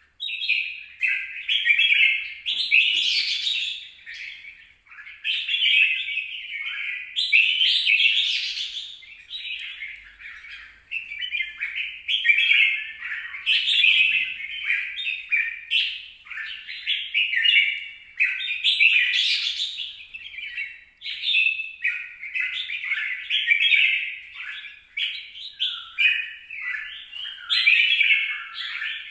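Bulbul singing: an unbroken run of short, chattering, warbled phrases, one after another with barely a pause.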